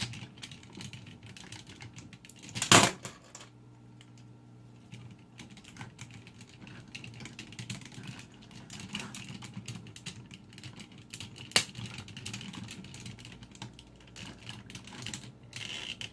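Hard plastic parts of the DX Engine-Oh robot toy clicking and rattling as a shield is worked into its hand, with a loud click a little under three seconds in and another sharp click a little under twelve seconds in.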